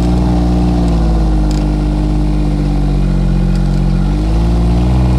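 Engine of a John Deere Gator utility vehicle running under way. Its pitch drops about a second in as it eases off, stays low, then rises again near the end as it picks up speed.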